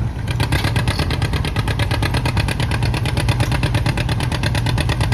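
John Deere 50 two-cylinder tractor engine pulling under load, its exhaust giving a rapid, even beat of pops that starts about a third of a second in.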